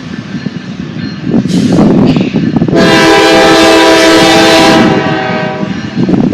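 Diesel locomotive air horn sounding one long blast of several steady tones together, lasting about three seconds, over the low rumble of a train moving on the rails.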